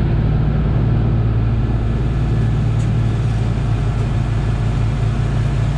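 Heavy farm diesel engine running at a steady speed, a continuous low drone with no change in pitch.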